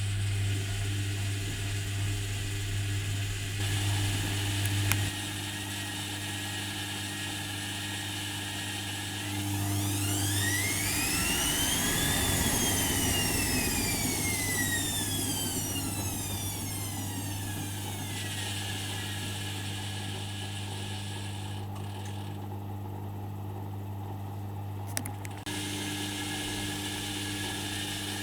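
Privileg Dynamic 4612 washing machine running a wash cycle: a steady low hum, and about ten seconds in the drum motor whines up in pitch and then slowly back down as the drum turns. There is a sharp click near the start and another near the end.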